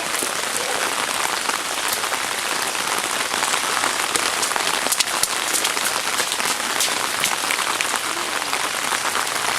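Heavy rain pouring down steadily, with scattered sharp ticks of individual drops striking close by.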